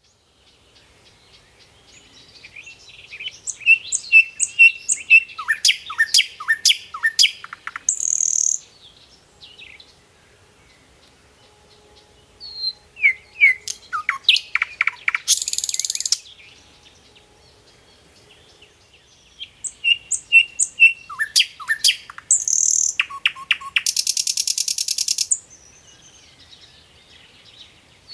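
Birdsong: three bouts of rapid chirps, down-slurred whistles and buzzy trills, each a few seconds long, with quiet pauses between them.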